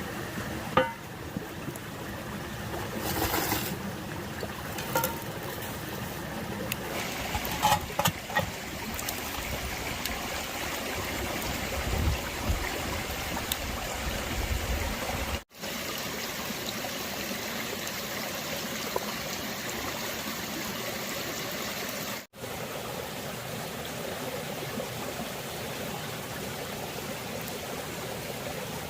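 Stream water flowing steadily, with a few small clicks or splashes in the first several seconds. The sound drops out abruptly for an instant twice, about halfway through and again a few seconds later.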